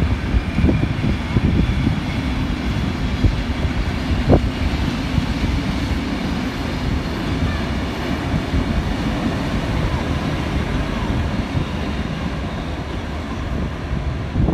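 Passenger train rolling past with a steady rumble, wheels giving occasional sharp clicks on the rails, with a Victorian Railways T-class diesel locomotive running by coupled to the carriages.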